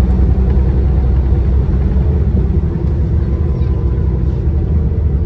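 City bus running along the street, heard from on board: a steady low engine and road rumble with a faint hum of higher tones over it.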